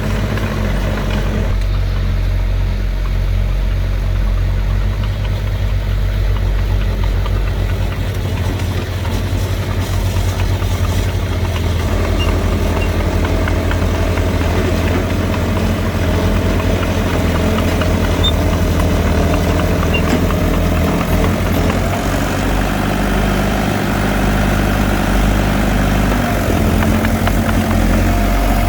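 Heavy earthmoving machinery's diesel engines running steadily, a deep low drone whose pitch shifts now and then.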